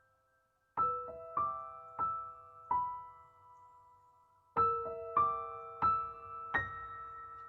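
Background music: slow, gentle piano notes, struck one at a time and left to ring, in two groups of about five.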